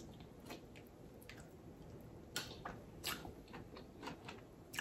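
Quiet close-up eating: soft, wet chewing of a mouthful of food, with a scattering of short faint mouth clicks.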